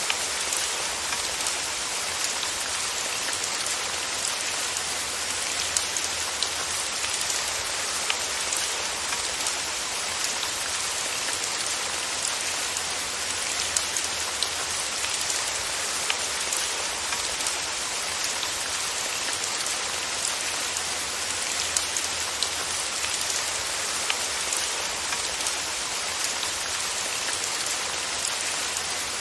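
Steady rain falling on a surface: an even hiss with scattered individual drops pattering.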